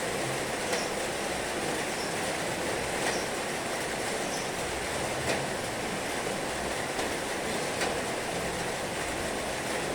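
Heavy rain falling steadily, an even hiss with a few sharper drop impacts scattered through it.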